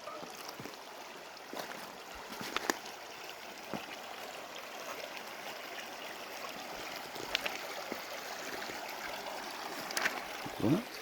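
River water flowing steadily, with scattered sharp clicks and knocks over it.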